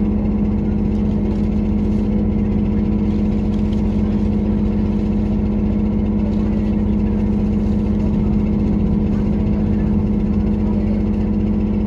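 Diesel engine of a JR Kyushu KiHa 183-1000 series railcar heard from inside the passenger car, running steadily with a strong even hum and a rattling noise. The rider suspects the rattle comes from an engine fault or the engine's age.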